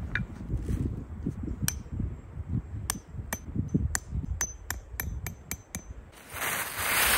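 A series of sharp knocks, coming closer together as they go, over a low gusting rumble; about six seconds in, a loud burst of rushing noise starts.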